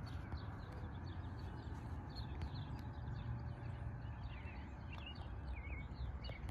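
Small birds chirping repeatedly in short, rising and falling calls, over a steady low rumble of wind on the microphone.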